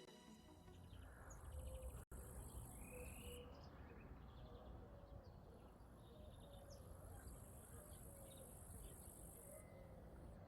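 Faint outdoor ambience: a high, steady insect buzz in two long spells, with scattered short bird chirps.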